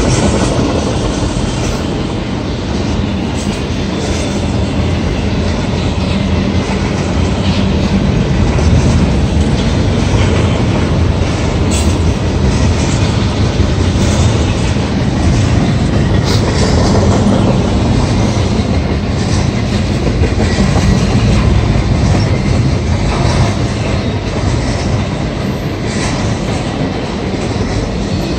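Double-stack intermodal freight train's loaded well cars rolling past: a loud, steady rumble of steel wheels on rail, with occasional sharp clicks.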